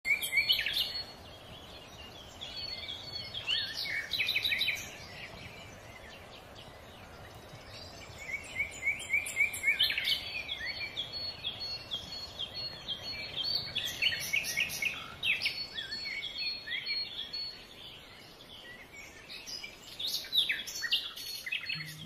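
Songbirds singing and chirping, several quick rising and falling calls overlapping and coming and going, over a soft steady background hiss.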